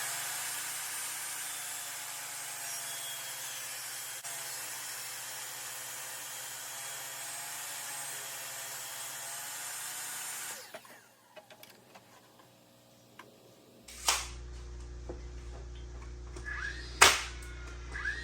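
A power tool runs steadily for about ten seconds, then winds down and stops. After a short pause come three sharp cracks, a few seconds apart, over a low steady hum.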